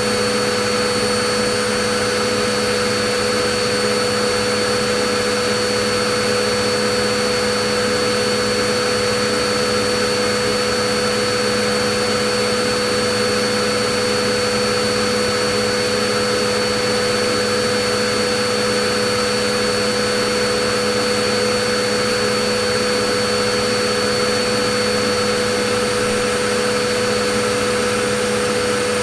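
Vacuum cleaner running steadily: an even rushing hiss of air with a constant motor whine, no change in pitch or level.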